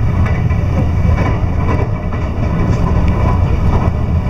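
Electric passenger train running at speed, heard from inside the carriage: a steady, loud, low rumble of the wheels on the rails.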